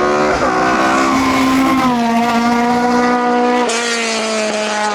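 Hillclimb race car's engine at high revs. Its note rises, drops sharply about two seconds in, then holds steady, with another change near the end.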